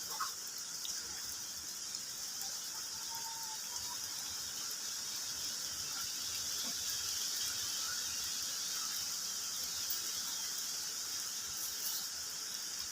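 Steady high-pitched hiss of rural outdoor ambience, with a few faint short chirps.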